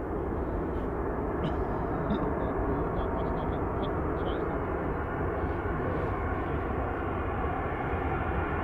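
Jet airliner engine noise: a steady rushing sound with no clear tone.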